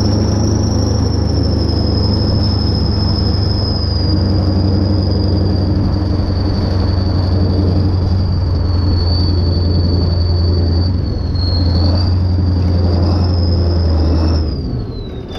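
Kirovets K-700A tractor's diesel engine running hard at high revs, a deep drone under a steady high whine. Near the end the revs drop and the whine falls in pitch.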